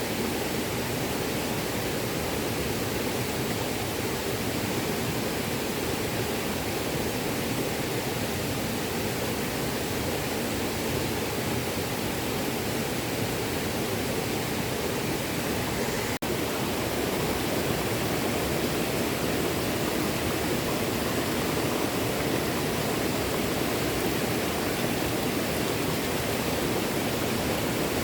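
A small stream flowing and burbling steadily, with a momentary break about halfway through, after which it runs a little louder.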